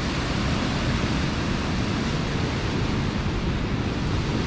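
Steady rushing roar of a large waterfall, an even noise with no break in it.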